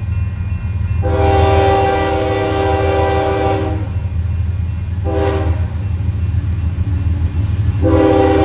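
Union Pacific freight train's locomotive air horn sounding a long blast, a short one, then another long one that is still going at the end, over the steady low rumble of the train. This is the long-short-long close of a grade-crossing horn signal.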